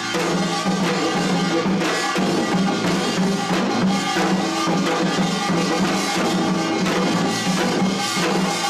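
Korean pungmul folk percussion band playing, its drums and gongs beating a dense, continuous rhythm.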